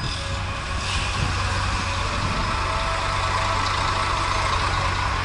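Motorcycle riding along a road, its engine and the rush of wind on the rider's camera making a steady, even noise.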